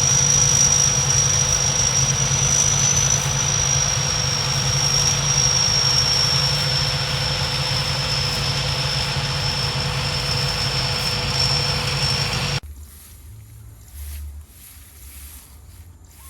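Rice combine harvester's engine running steadily with a high, even whine over a low rumble; it stops abruptly about three-quarters of the way through, leaving a much quieter background.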